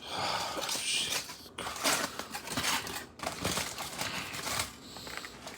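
Aluminum foil, two layers thick, crinkling and tearing in irregular rips and rustles as it is pulled open by hand.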